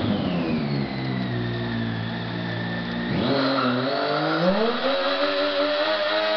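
Triumph 675's three-cylinder engine held on high revs for a burnout. The revs sag for the first couple of seconds, climb sharply about three seconds in and again a second later, then hold at a steady high pitch.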